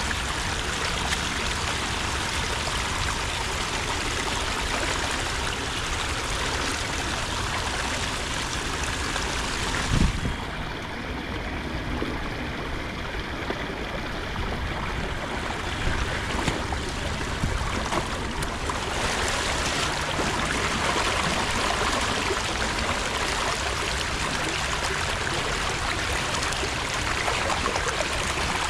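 Water rushing and trickling steadily where a beaver dam blocking a culvert has been broken open. A single knock about ten seconds in, after which the water sounds duller for several seconds.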